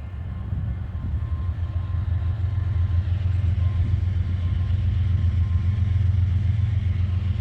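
Diesel switcher locomotive's engine running with a low rumble, growing louder over the first few seconds as it approaches, then holding steady.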